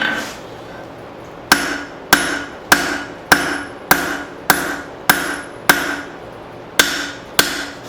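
Blacksmith's hammer striking leaf spring steel on an anvil while forging, about ten blows at an even pace of nearly two a second, each one ringing briefly, with a short pause before the last two.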